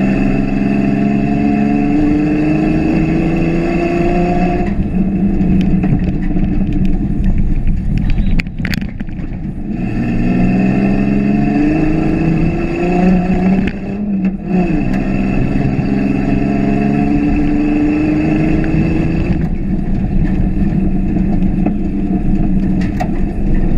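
1989 Ford Ranger prerunner's engine pulling hard under throttle, its pitch climbing three times with drops in between as the throttle is lifted. A short clatter of knocks comes about eight and a half seconds in.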